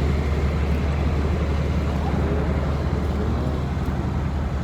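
Steady low rumble of a car engine running at low speed.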